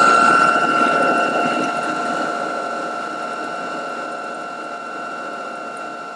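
Small rotary power tool running with a steady high whine while cutting an oil-relief bevel into a babbitt main bearing cap, with a rough cutting noise underneath. It slowly gets quieter toward the end.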